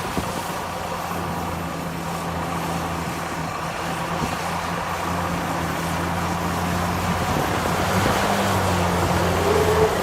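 Heavy diesel engine of earthmoving machinery running steadily under load, its pitch shifting and its level rising about two seconds before the end.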